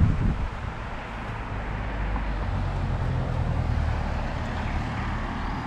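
Road traffic: a motor vehicle passing, its engine giving a steady low hum from about halfway in, over a wash of tyre and outdoor noise.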